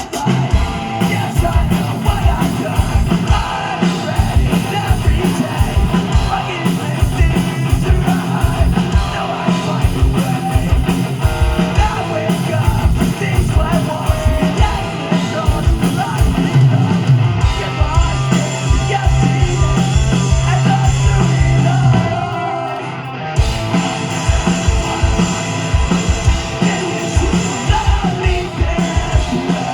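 Live post-hardcore rock band playing loudly: distorted electric guitars, bass and pounding drums with sung vocals. The band drops out briefly about three-quarters of the way through, then crashes back in.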